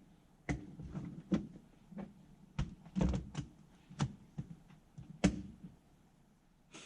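A string of irregular knocks and clacks, about a dozen over several seconds, with the loudest cluster around the middle and one sharp knock near the end.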